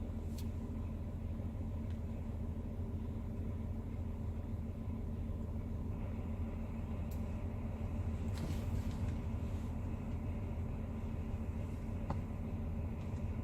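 Semi-truck diesel engine idling steadily: a low, even hum with a few faint clicks scattered through it.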